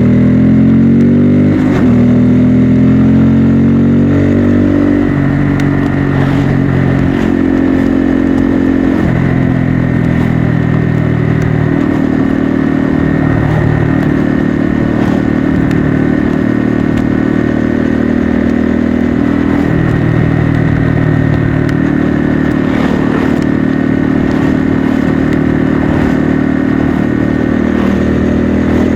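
Bajaj Pulsar N250's single-cylinder engine and exhaust under way on the road. It revs up at the start, then holds a steady cruising pitch, with several steps in pitch at gear changes.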